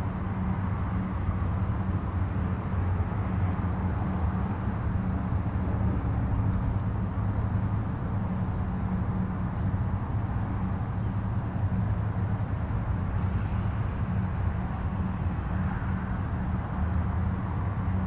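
Distant highway traffic: a steady, unbroken low rumble of many vehicles' tyres and engines blended together, with no single vehicle standing out.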